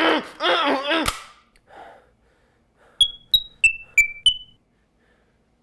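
A voice speaks briefly, then about three seconds in comes a quick run of five short, high-pitched chirping beeps, each starting sharply and dipping a little in pitch as it fades, about three a second.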